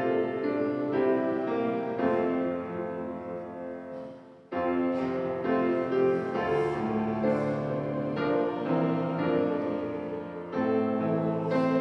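Piano playing a hymn in sustained chords that change about every half second, with a brief break about four seconds in before the next phrase.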